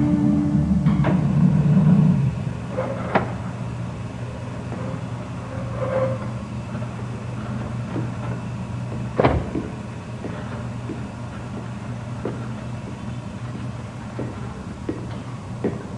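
A musical sting with low drums dies away in the first two seconds, then a steady low hum with scattered clicks and knocks, the loudest knock about nine seconds in.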